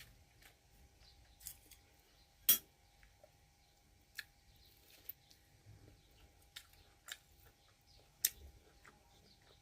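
Scattered light clicks and clinks, two of them sharper and louder, about two and a half seconds in and near the end, over a faint steady hum.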